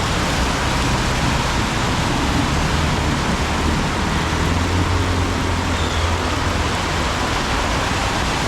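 Heavy rain pouring steadily, with a low vehicle rumble swelling about halfway through.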